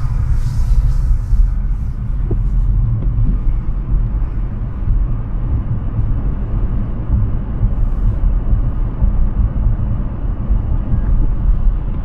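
Steady low rumble of road and wind noise from a Hyundai Ioniq 6 driving at highway speed; the car is electric, so there is no engine note, only tyre and air noise.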